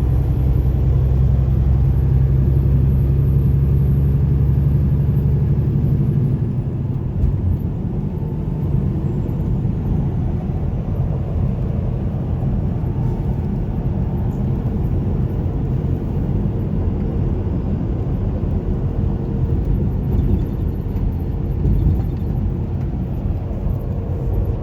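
Semi truck driving: a steady low engine drone with road rumble. About six seconds in the engine hum eases and a rougher road rumble carries on.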